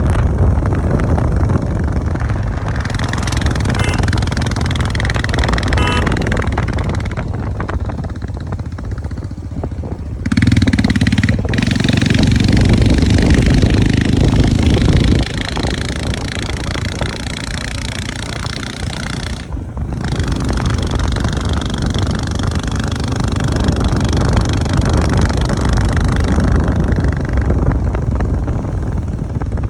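Motorcycle running on the road, a steady low engine rumble mixed with road and air noise. The sound changes abruptly several times, as between joined clips, and is loudest from about ten to fifteen seconds in.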